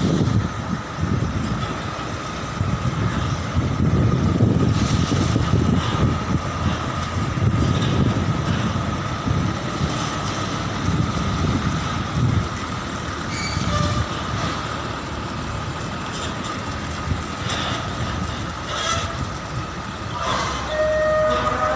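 Heavy truck diesel engines running as the trucks maneuver trailers, a deep rumble with a steady high whine over it. Near the end, brief pitched squeals or horn-like tones.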